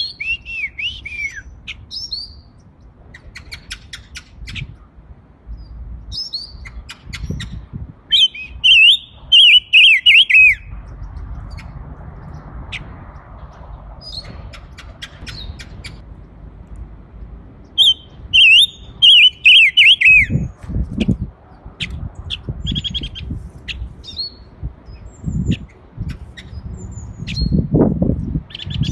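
Small caged songbird singing two loud phrases of rapid repeated, falling notes, about 8 and 18 seconds in, with short chirps scattered between them. A few low knocks come near the end.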